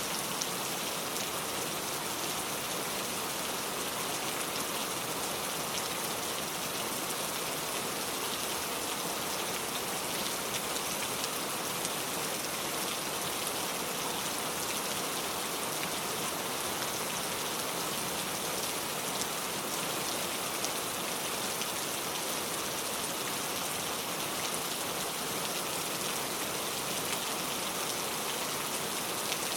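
Steady rain falling, with many fine drops pattering on a surface and no let-up or change.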